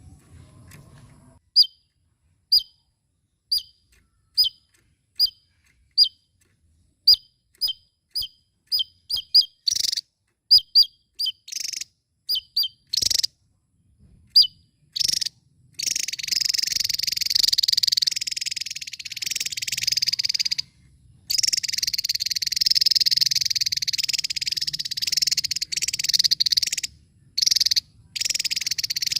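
Javan tesia singing: a run of sharp, high, downward-flicking notes, spaced widely at first and coming closer and faster, then from about halfway a continuous rapid high chatter broken by a few short pauses.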